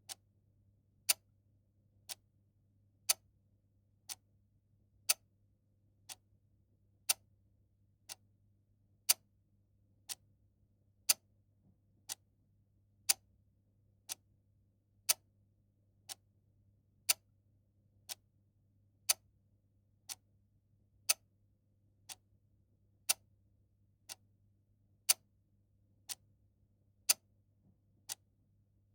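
Mechanical clock ticking steadily once a second, the ticks alternating louder and softer in a tick-tock pattern.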